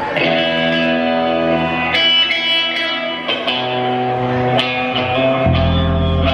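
Electric guitar playing ringing chords live, changing chord every second or two; low notes join about five seconds in.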